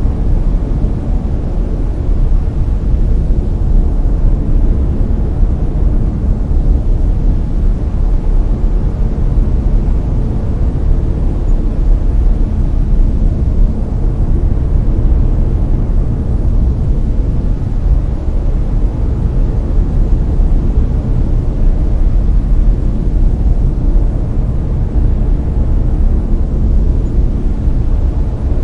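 Layered brown noise: a steady, deep rushing hiss, heaviest in the low end and soft in the highs, with no change or break.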